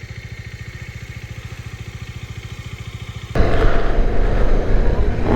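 Bajaj Dominar 400's single-cylinder engine running steadily at idle with an even low pulse. About three seconds in, a much louder rushing rumble cuts in suddenly.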